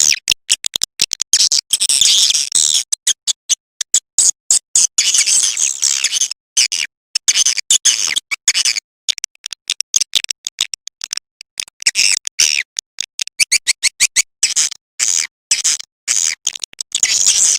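Swiftlet call-sound recording: rapid, high-pitched twittering chirps in quick runs broken by short gaps. It is the lure sound played to draw swiftlets into a nesting house.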